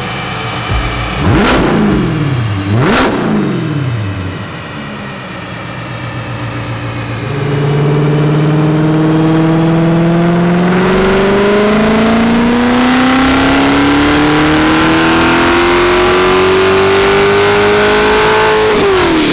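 C8 Corvette V8 through long-tube headers and a stainless cat-back exhaust: two quick throttle blips, then a full-throttle dyno pull with the engine note climbing steadily in pitch for about eleven seconds. Near the end the throttle closes and the revs fall quickly.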